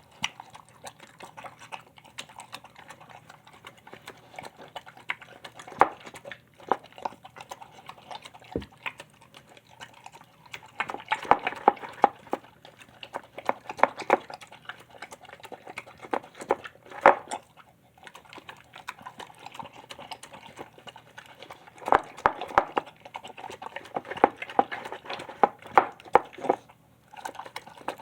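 A shar-pei–pit bull mix dog eating, with wet chewing and mouth smacking. It comes in bursts of rapid sharp clicks, the loudest clusters near the middle and toward the end, separated by quieter pauses.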